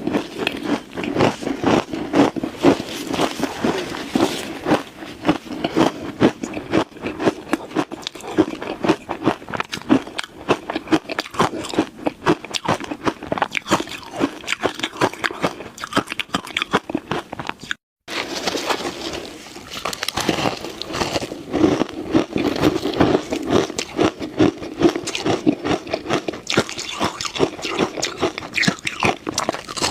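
Ice being bitten and chewed close to the microphone: a dense, continuous crunching and crackling, broken by a momentary gap a little past halfway.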